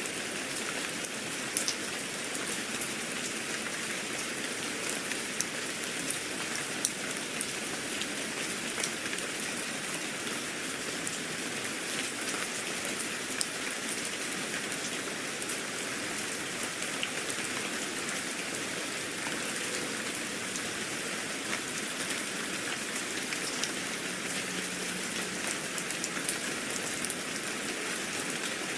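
Steady rain falling, an even hiss with many small drop taps pattering on a surface.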